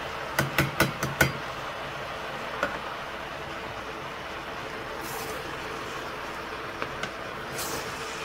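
About five quick knocks against the cooking pot as diced tomatoes go in, then a steady sizzling hiss from the curry vegetables frying in the pot, with two brief sharper hisses later on.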